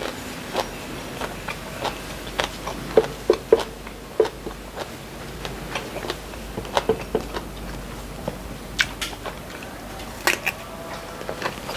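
Close-miked chewing: wet mouth clicks and lip smacks at an irregular pace, with a few sharper crisp clicks near the end as a piece of raw green vegetable is bitten.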